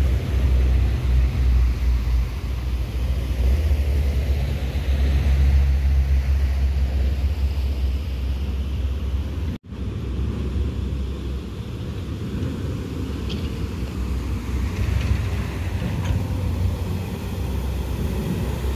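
Heavy diesel truck running, a deep steady engine rumble with road noise; the sound breaks off for an instant about ten seconds in and carries on.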